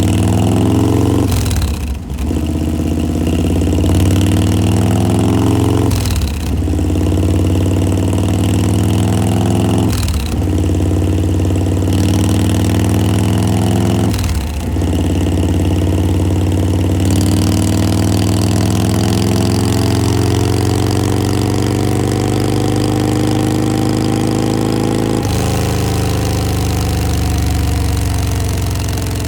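Harley-Davidson V-twin engine running through a Bassani Road Rage 3 aftermarket exhaust. The engine note briefly dips and picks up again four times, about every four seconds, then runs steadily.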